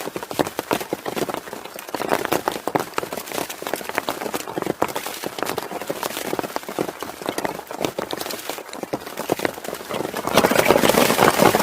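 Heavy rain pattering on the hut roof: dense irregular drop impacts that grow louder and heavier about ten seconds in.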